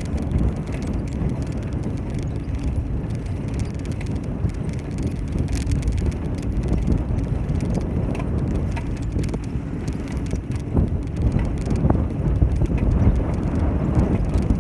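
Bicycle riding along: a steady low rumble of tyres and moving air on the microphone, with scattered light rattles and clicks.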